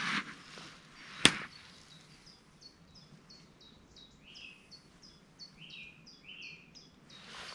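A bird singing a long run of short, high, falling notes, about three a second, with a few lower notes mixed in. Just before it, a brief swish and, about a second in, a single sharp click, the loudest sound.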